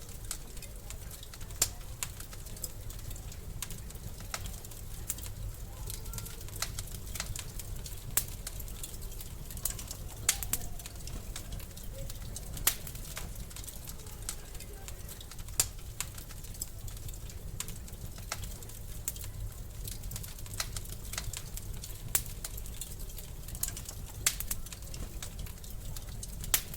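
Wood fire crackling in a fireplace: irregular sharp pops and snaps over a steady low rumble, with several louder pops every few seconds.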